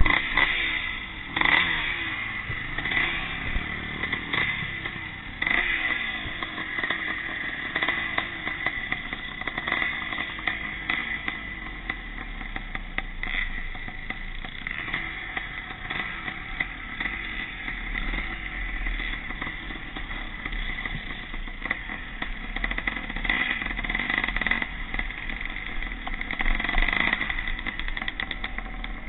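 Vintage pre-1965 motocross motorcycles racing, their engines revving up and down and rising in pitch as they accelerate.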